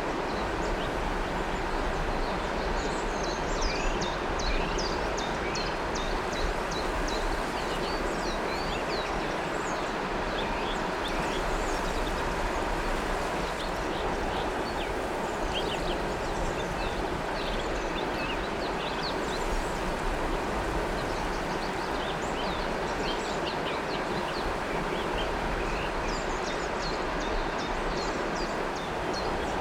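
River water flowing steadily, with many birds chirping in short high calls throughout.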